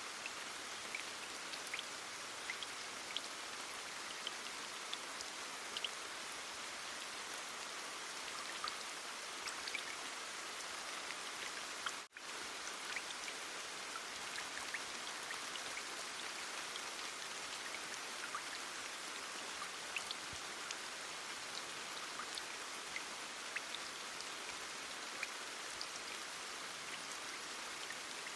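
Heavy rain falling: a steady hiss with scattered sharp drop ticks. The sound cuts out for an instant about twelve seconds in.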